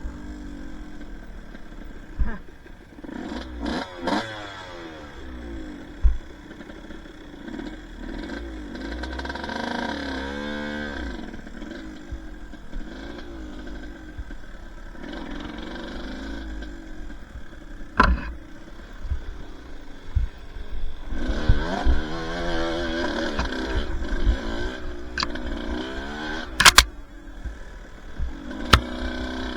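Two-stroke dirt bike engine revving up and down as the throttle is worked on a trail, with several sharp knocks and clatter throughout.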